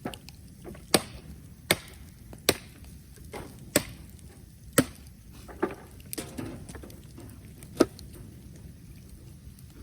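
Wood or bamboo being chopped: about nine sharp strokes, irregularly spaced roughly a second apart.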